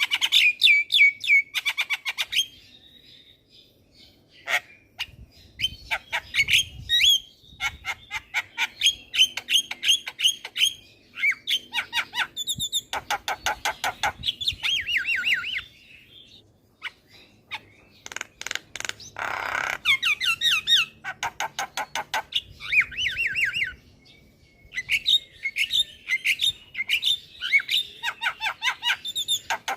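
Javan myna singing vigorously: runs of rapid, sharp chattering notes broken by short pauses, with one harsh, noisy squawk about two-thirds of the way through.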